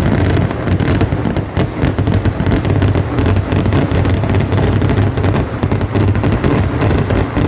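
A dense barrage of festival fireworks: rapid explosions following so closely that they merge into one continuous deep rumble with crackling on top.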